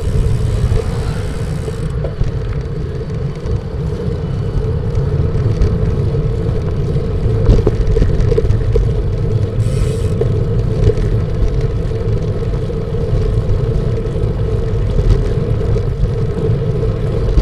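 Wind buffeting the microphone of a cyclist riding into strong gusts: a loud, steady rumble with a hum underneath, and a brief hiss about ten seconds in.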